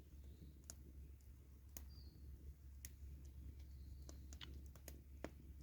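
Wood fire crackling faintly, with scattered sharp pops and snaps at irregular intervals over a low steady rumble.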